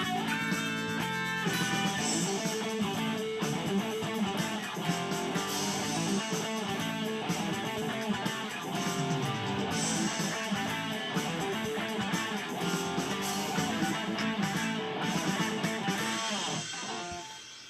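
Guitar music, plucked and strummed, playing steadily; it thins out and dips in level shortly before the end.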